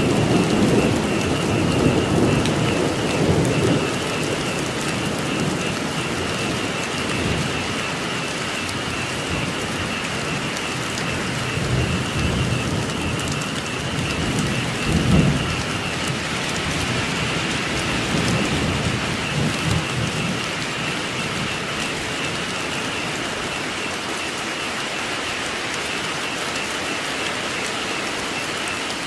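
Steady heavy rain with low rolls of thunder in the first few seconds and again about halfway through, over a constant high-pitched chorus of frogs.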